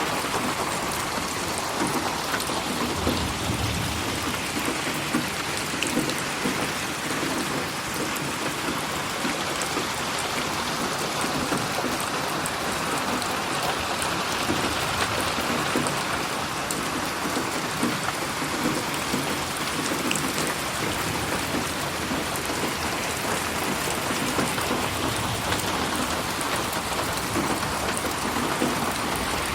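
Steady rain falling and pattering on surfaces, mixed as 8D audio so it pans around the listener. A low rumble comes in about three seconds in and fades over the next few seconds.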